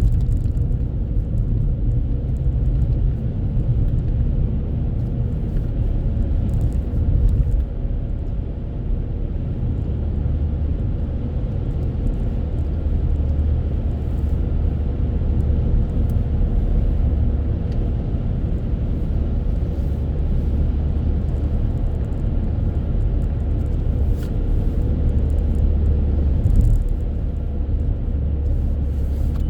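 A car driving: a steady low rumble of engine and road noise, with a faint steady hum above it.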